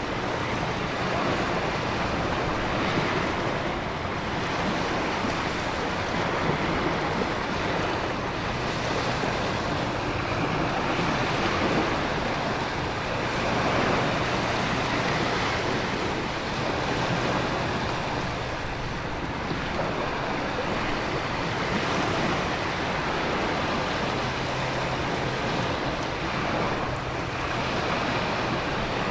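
Storm ambience: a steady rush of heavy rain and wind with ocean surf that swells and eases every few seconds.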